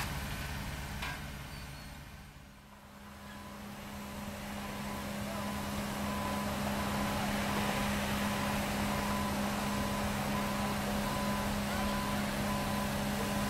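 Engines of asphalt paving machinery running steadily. The sound drops away about two seconds in, then builds back to a steady low hum. Through the second half there is a repeating high beep.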